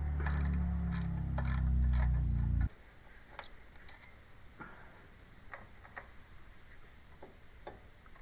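Light metallic clicks and ticks of tools working on the ignition coil's mounting screws as the coil is taken off the Kohler engine. Under them a steady low machine hum runs and cuts off suddenly about two and a half seconds in, leaving only sparse clicks.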